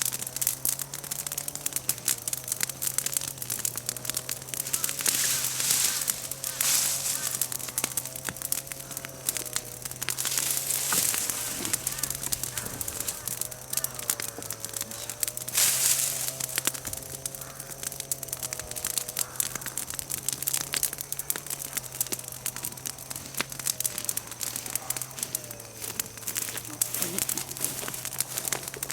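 Bonfire of freshly fallen chestnut-tree leaves and twigs crackling and popping densely and loudly. A steady, slightly wavering hum runs underneath.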